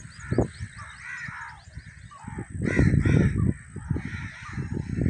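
Crows cawing repeatedly, several harsh calls in quick succession, loudest in a cluster about halfway through, over low rumbling bumps.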